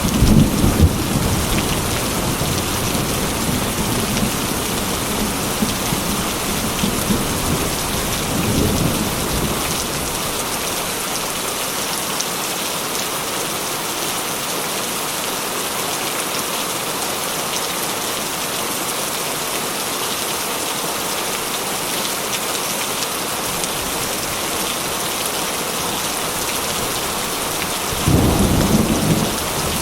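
Heavy rain falling steadily on a metal roof, with low rolls of thunder at the start, again around nine seconds in, and near the end.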